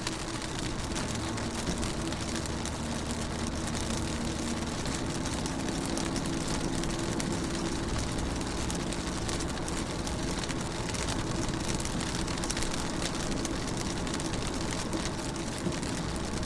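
Rain falling on a car's window and body, heard from inside the car as a steady hiss of fine drop ticks, with a low steady hum underneath.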